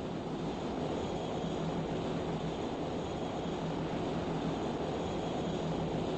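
Steady roar of big ocean waves and surf mixed with wind buffeting the microphone, with no separate splashes or breaks standing out.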